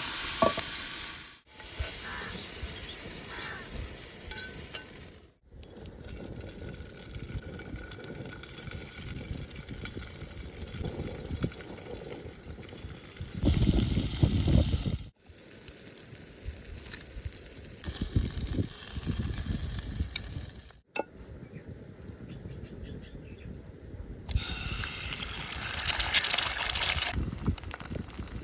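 Food frying and sizzling in a pan, with scattered knocks and scrapes of a cooking utensil, in several short segments that cut off abruptly.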